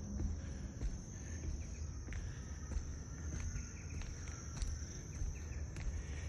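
Insects trilling steadily at a high pitch, with a low rumble and a few faint clicks underneath.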